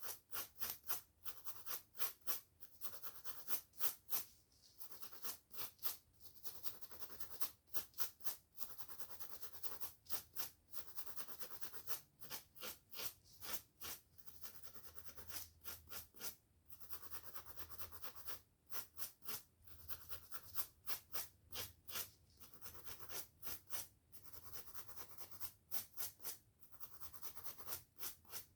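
Hair brushing and scratching on a scalp: fast runs of scratchy strokes, several a second, with short pauses between runs.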